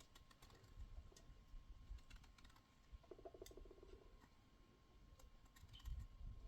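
Near silence with faint scattered clicks and light low knocks, and a brief faint pitched sound about three seconds in.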